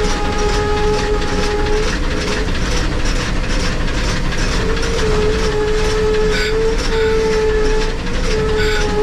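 Narrow-gauge logging-railroad steam train running, with a sustained high squeal that wavers in pitch, dipping briefly a few times, over a steady rhythmic clatter.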